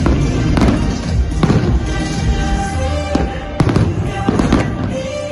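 Fireworks shells bursting in quick succession, with repeated bangs and crackles over music playing with a steady series of notes.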